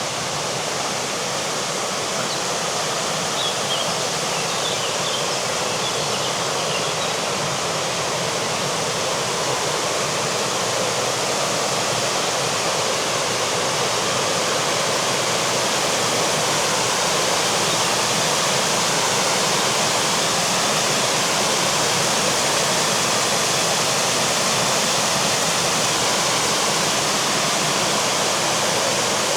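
Rushing river water, a steady noise that grows slightly louder, with a few faint bird chirps about three to five seconds in.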